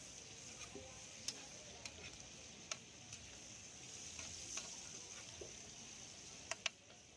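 Food sizzling steadily in hot oil on a large flat iron griddle (tawa), stirred with a metal spatula. A few sharp clicks of the spatula against the griddle cut through the hiss, two of them close together near the end.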